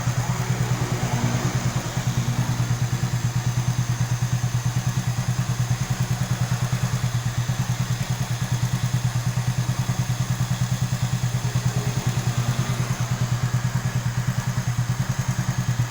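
Motorcycle with a swapped-in Yamaha Jupiter MX single-cylinder four-stroke engine, breathing through a Yamaha Vixion muffler, idling steadily with an even, rapid pulse from the exhaust.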